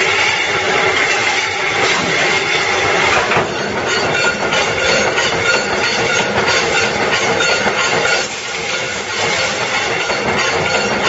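Mechanical C-frame punch press with a CNC worktable running, giving a loud continuous mechanical clatter, with a brief dip in level about eight seconds in.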